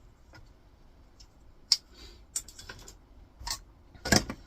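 Scattered sharp clicks and taps of plastic and metal monitor parts being handled during a teardown, about five in all, the loudest near the end.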